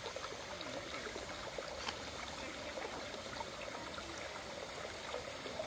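Running water pouring and trickling steadily, with small gurgles and splashes.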